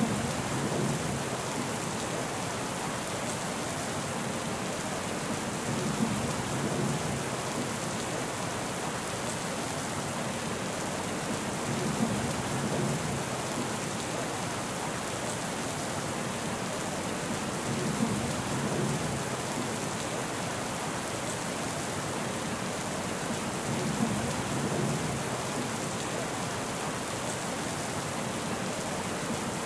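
Steady rain hissing down. A short low rumble with a sharp start swells and fades about every six seconds, repeating evenly.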